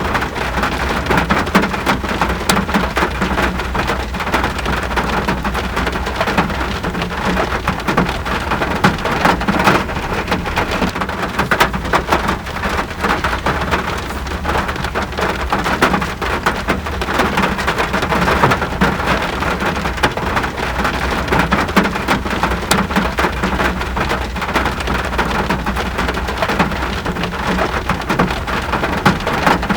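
Steady rain falling: a dense, even patter of raindrops on surfaces over a constant low rumble.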